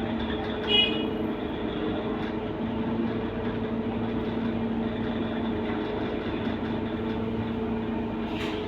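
Scania K230UB bus's five-cylinder diesel engine running steadily as the bus drives, a constant low drone. A short high beep sounds about a second in, and a brief hiss near the end.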